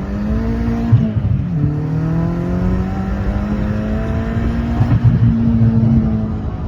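Car engine accelerating: its pitch climbs, drops sharply about a second in as a gear is changed, then holds a steady, slowly rising note as the car pulls in the next gear.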